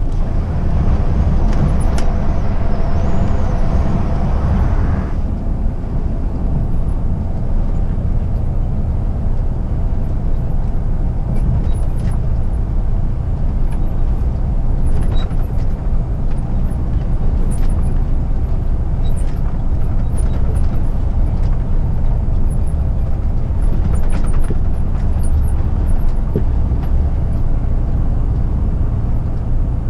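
Scania R450 truck's 13-litre six-cylinder diesel running steadily at highway speed, a constant low drone with road noise, heard from the driver's cab. For about the first five seconds a hiss rides over it and then cuts off suddenly.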